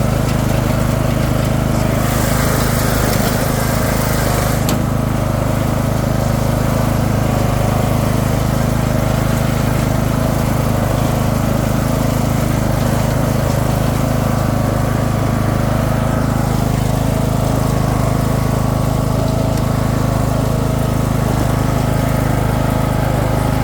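Craftsman II lawn tractor's swapped-in engine running steadily, with a brief rush of higher noise about two seconds in.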